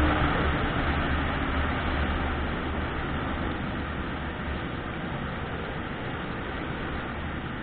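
A vehicle driving in the rain: a steady rushing of rain and wet road noise over a low rumble, slowly getting quieter.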